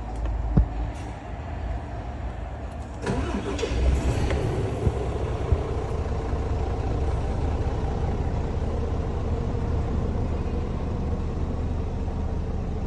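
Scania S450 truck's 13-litre inline-six diesel starting about three seconds in, after a few clicks, then settling into a steady idle.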